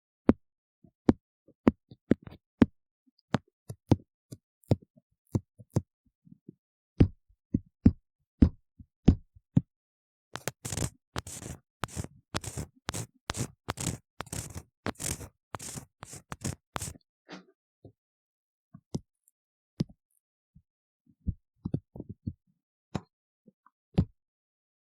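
Ear-cleaning tool scraping and tapping inside a silicone ear model, close to the microphone. Sharp separate clicks and taps, then about seven seconds of dense, rapid scratching in the middle, then sparse clicks again near the end.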